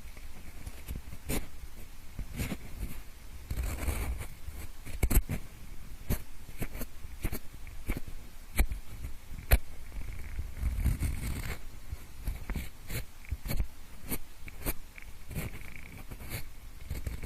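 Pencil scraping, rubbing and tapping close to the microphone, imitating ear cleaning. Irregular sharp clicks come between stretches of scratchy rubbing with a low rumble.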